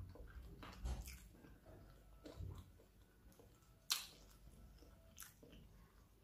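A person chewing chicken feet: soft, wet chewing noises broken by a few sharp clicks, the loudest about four seconds in.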